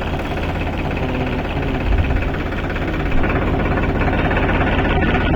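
Heavy diesel engine running steadily with a deep low rumble.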